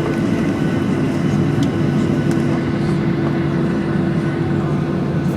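Steady cabin noise inside a Ryanair Boeing 737-800: the drone of its CFM56-7B turbofan engines and airflow, with two steady low hums that hold their pitch.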